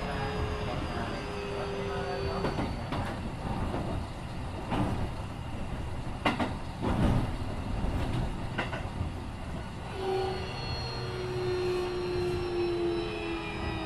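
Keikyu 1500 series electric train heard from inside a motor car while running, with the Mitsubishi IGBT-VVVF inverter whining in several tones that slide slowly in pitch. Wheels clack over rail joints several times in the middle of the stretch, under a steady running rumble.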